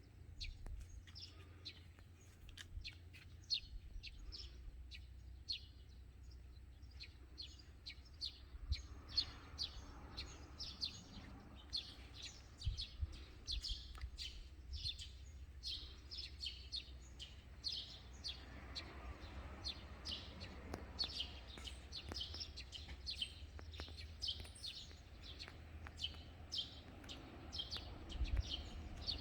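Small birds chirping in quick, repeated short calls throughout, over a steady low rumble, with a broader swell of noise twice, typical of passing road traffic.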